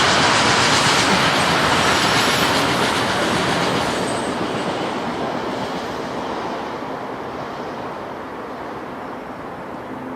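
Freight train rolling past, a steady rush of steel wheels on rail with some wheel squeal, slowly fading as the train moves away.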